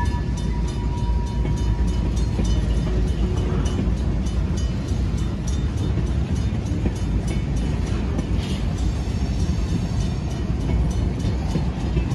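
Freight train of tank cars rolling past: a steady low rumble of steel wheels on rail, with a rapid, even ticking throughout. A high squeal fades out about a second in.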